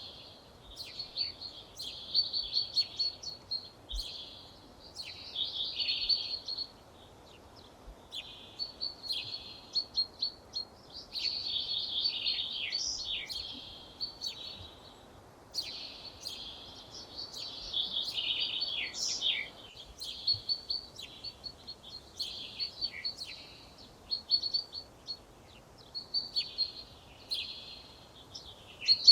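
Songbird singing: phrase after phrase of quick, high notes, each phrase one to a few seconds long, with short pauses between them.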